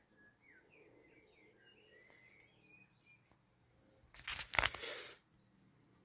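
Faint bird chirps in the background, then a loud burst of hiss-like noise lasting about a second, starting about four seconds in.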